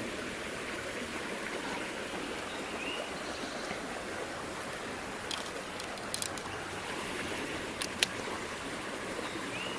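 Creek water running steadily over the streambed, with a few sharp clicks about halfway through and one louder click near the end.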